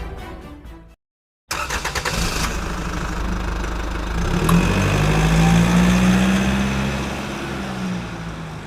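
Music fades out in the first second and there is a short gap. Then comes a petrol car engine running, over a steady rush of road and wind noise. The engine's hum rises a little in the middle and eases off again.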